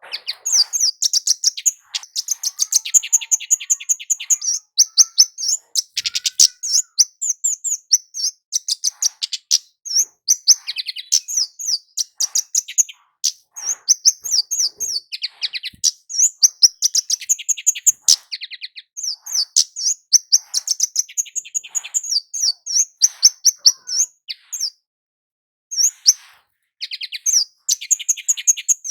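Kemade (a Javan flowerpecker) singing: phrases of rapid, high-pitched chirps repeated almost without a break, with one short pause near the end.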